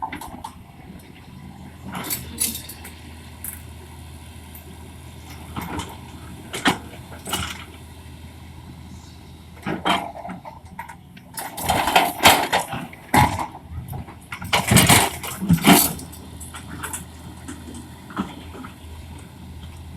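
Excavator diesel engine running with a steady low hum, under irregular sharp cracks and clanks from the machine at work. The knocks come thickest and loudest a little past halfway.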